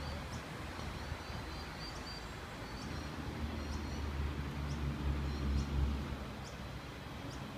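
Low rumble of a departing Tangara electric train as it draws away, swelling briefly in the middle, with short high bird chirps about once a second over it.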